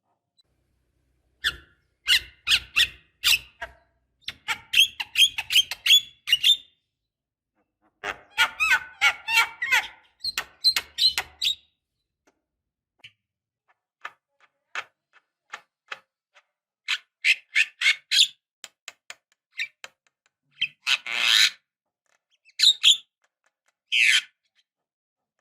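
Javan myna (jalak kebo) singing in bursts of rapid chattering, clicking and squeaky notes, separated by short pauses. A few louder harsh calls come near the end.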